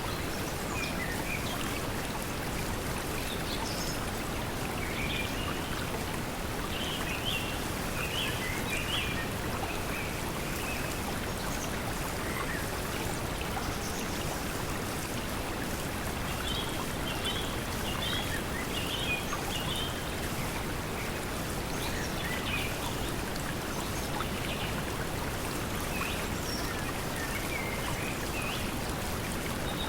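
Steady pink noise blended with flowing stream water, with small birds chirping in short clusters over it.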